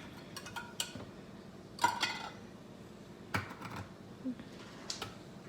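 Sharp metallic clinks of tuna cans and their cut lids being handled while the tuna is drained, a few scattered knocks each with a short ring, the loudest about two seconds in.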